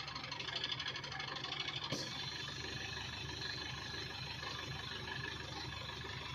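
Diesel engine of a tractor or combine harvester running steadily at idle, with one sharp click about two seconds in.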